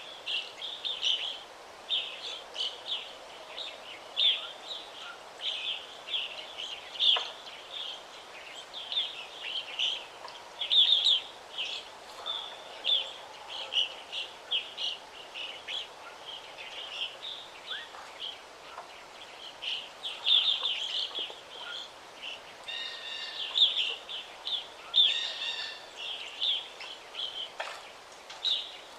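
Several songbirds chirping and singing in a forest, a dense run of short high calls throughout over a faint steady background hiss.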